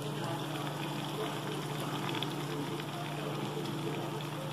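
Chopped onion, tomato and green chilli frying in oil in a kadai, giving a soft, steady sizzle, over a low steady hum.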